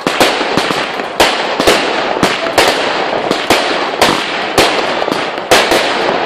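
Fireworks going off in quick succession: sharp bangs roughly twice a second over a continuous crackle.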